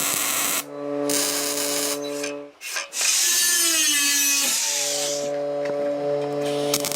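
A handheld power tool running against a surface with a steady humming tone under it, in short segments that cut off abruptly.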